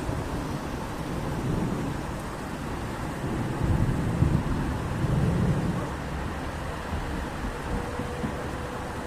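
Steady rain with a low rumble of thunder swelling and rolling off about halfway through.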